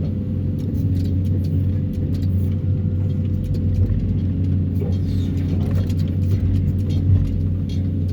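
Excavator's diesel engine running steadily with a low hum, with a few light clicks over it, while its arm stacks steel sheet piles.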